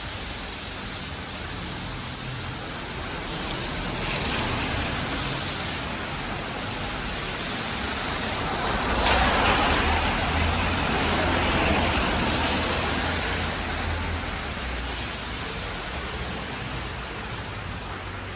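A road vehicle driving past, its noise swelling to a peak about halfway through and then fading.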